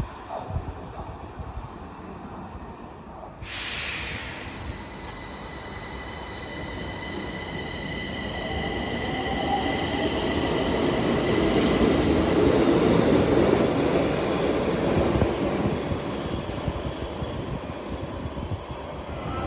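Stockholm Metro train running on the track, its rumble building to a peak and then easing, with a steady high-pitched squeal of wheels on the rails. A sudden hiss comes in a few seconds in.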